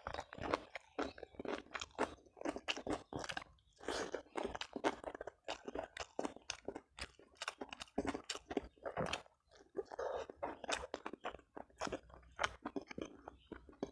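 Close-miked chewing of a mouthful of rice and sardines, with many quick, irregular crunches.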